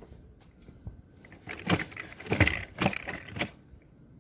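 Snow shovel blade scraping and crunching through packed snow and gravel, four strokes in quick succession starting about a second and a half in. The blade is digging into the gravel and catching, the way it does on a gravel driveway.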